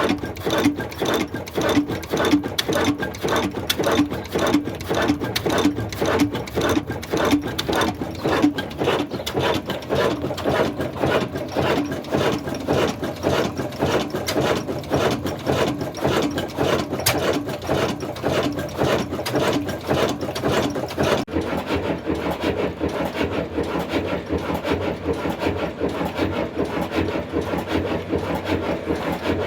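Old Ruston Hornsby diesel engine running steadily with an even, rapid beat of exhaust and knocks. About two-thirds of the way through, the sound turns duller, losing its sharper top end.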